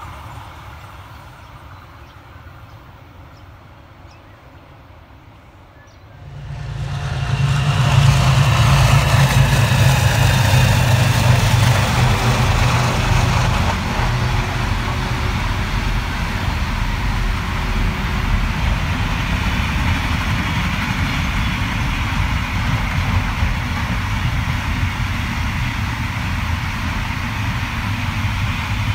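A container freight train passing close by. A quiet, fading rumble gives way about six seconds in to a loud, heavy low rumble that is strongest for the next several seconds, then settles into the steady rumble and clatter of container wagons rolling past.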